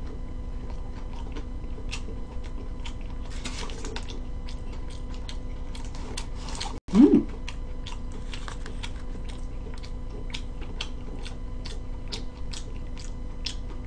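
Close-up eating sounds of a crisp McDonald's hash brown: many small crunches and chewing noises. A brief loud voice sound, a short hum-like 'mm', comes about seven seconds in.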